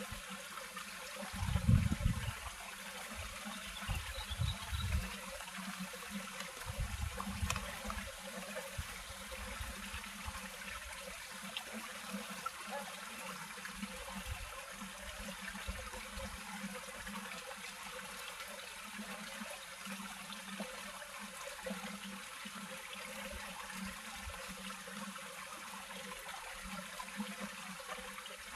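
Steady rushing of flowing water, with a few low rumbling bumps about two seconds in.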